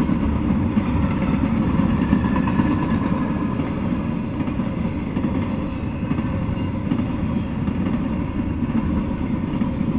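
Intermodal freight train rolling past, its steel wheels on the rails making a steady rumble as flatcars carrying semi-trailers go by.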